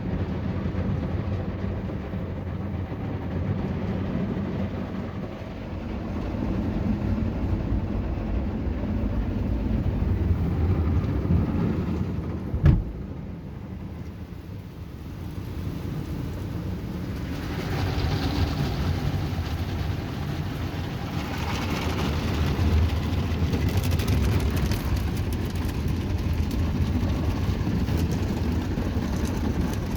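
Ryko Voyager automatic car wash working over a car, heard from inside the car: a steady low rumble of the machine and its water spray on the body. There is a sharp knock about twelve seconds in, and from about seventeen seconds the spray grows louder and hissier.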